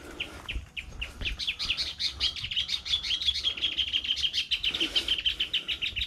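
A bird calling in short, high chirps, spaced out at first, then running into a fast, even series of about ten a second, over a low rumble.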